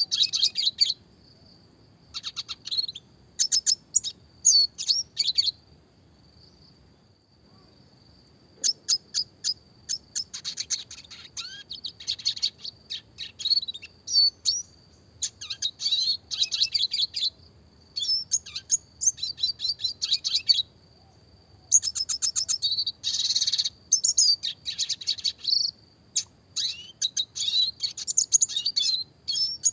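Red siskin singing: repeated bursts of fast, high twittering phrases of rolling trills and sharp notes, split by short pauses, with a longer pause about six seconds in. A thin, steady high tone runs underneath.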